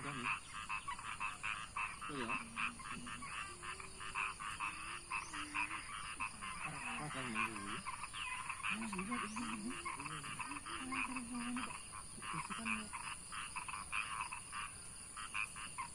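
A chorus of many frogs calling continuously, rapid overlapping croaks with no break.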